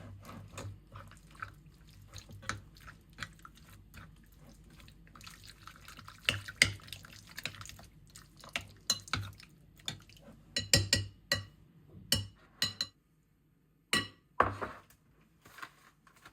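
Dishes and kitchen utensils clinking and knocking irregularly, with some water splashing or pouring.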